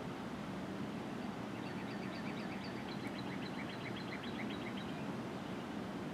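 A songbird sings a fast series of short high notes for about three and a half seconds. Under it runs a steady low rumble.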